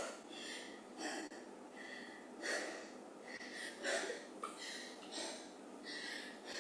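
A person breathing hard and fast, short audible breaths in and out, winded from a one-minute all-out cardio sprint and recovering during the rest.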